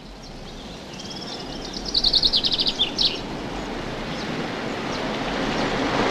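A small bird singing high chirps with a fast trill, about ten notes a second, in the first half. Under it the noise of a car driving through the wheat field grows steadily louder as it comes closer.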